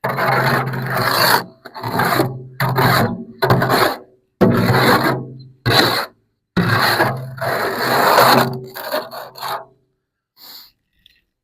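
Repeated rough scraping strokes, about eight of them, some over a second long, as mortar is scraped and packed into a gate-post hole with a hand tool; the scraping dies away near the end.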